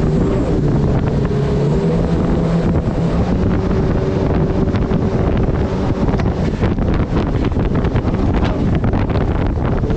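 Turbocharged Honda engine of a mini jet boat running steadily under way, with heavy wind buffeting the microphone. The engine's tone is clear for the first several seconds, then sinks under wind and water noise.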